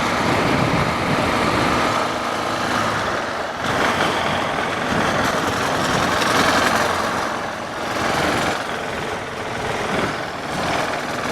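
A motorcycle on the move: its engine runs under a steady rush of wind and road noise, swelling and easing a little.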